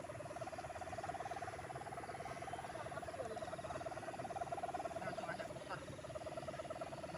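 Sendaren kite hummer on a flying gapangan kite droning in the wind, one steady pitch that wavers quickly.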